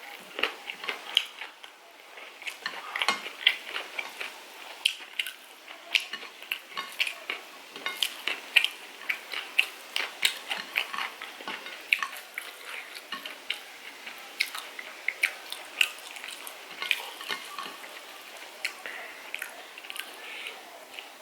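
Close-miked eating of chicken curry: an irregular run of wet clicks and smacks from chewing and from food being handled on a plate.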